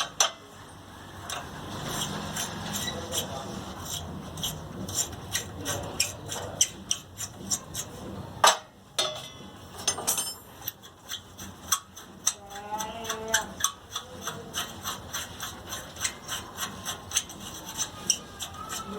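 Hand tools working the bolts of a 2.5 kW generator's silencer loose: a long run of repeated metallic clicks, a few a second, over scraping and rubbing of metal.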